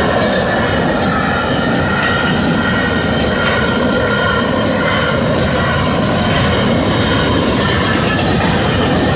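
Freight train rolling past: a loud, steady rumble of freight car wheels on the rails with several high ringing tones held over it.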